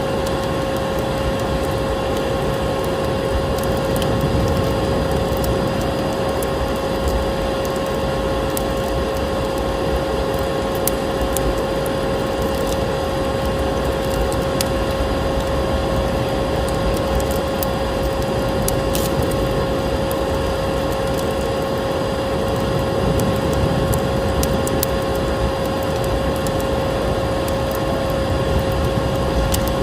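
Vacuum cleaner running steadily with a constant motor whine, mixed with a fireplace's wood fire crackling and popping in scattered sharp snaps.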